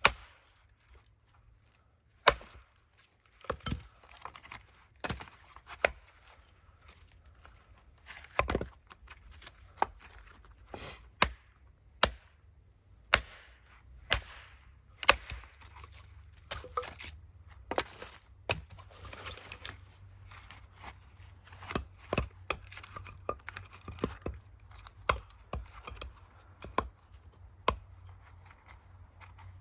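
Firewood being split by hand: a long series of sharp chopping strikes into wood at an uneven pace, roughly one every second or two, some followed by a short splitting crack as the wood tears apart.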